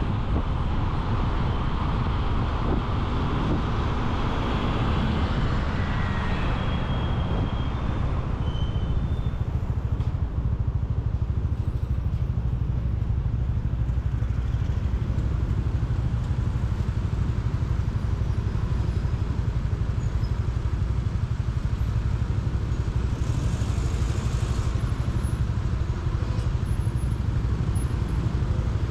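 Motorcycle engine running steadily under way, with road and city traffic noise around it.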